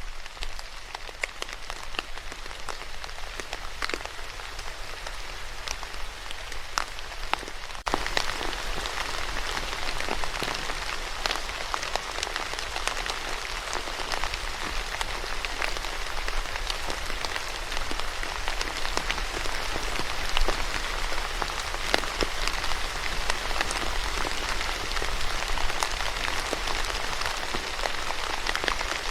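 Steady rain falling on a hard surface, a dense hiss with the ticks of single drops. About eight seconds in it suddenly becomes louder and brighter, and stays that way.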